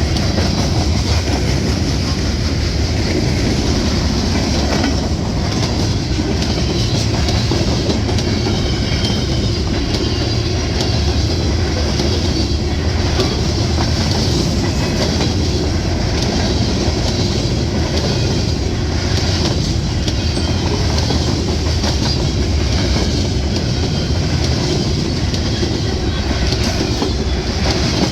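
Freight train of covered hoppers rolling past, wheels clicking steadily over the rail joints.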